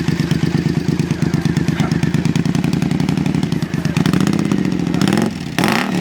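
Motorcycle engine on open pipes in place of its silencers, idling with an even pulsing beat, then revved twice in the last two seconds, the second blip short and sharp.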